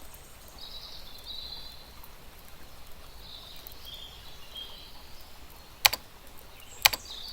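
Small birds chirping in short, scattered phrases over a steady background hush. Two sharp clicks about a second apart near the end are the loudest sounds.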